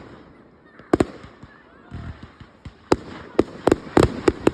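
Fireworks bursting overhead at a display: a single sharp bang about a second in, then a quick run of bangs in the last second and a half.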